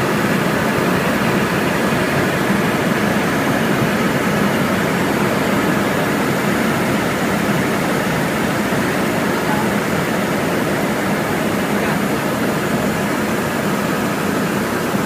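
A helicopter in flight, heard from inside the cabin: a loud, steady drone of turbine and rotor noise.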